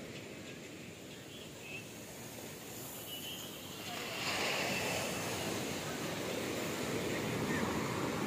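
Ocean waves washing onto a beach. The surf swells louder about four seconds in as a wave breaks.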